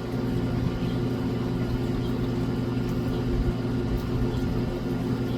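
Steady low mechanical hum made of several held low tones, like a motor running without a break.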